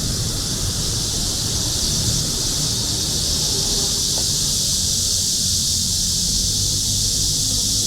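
Cicadas singing in a steady, unbroken high-pitched chorus of a midsummer night, over a low rumble of city traffic.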